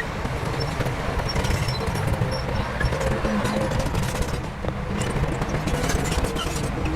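Heavy diesel earthmoving machinery running with a steady low rumble, and many short clanks and knocks through it.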